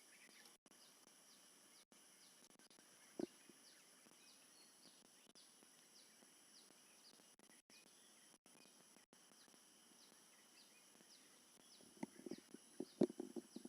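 Faint forest ambience: a steady high-pitched insect drone with a short high chirp repeating more than once a second. One sharp knock comes about three seconds in, and a brief run of crackling knocks near the end.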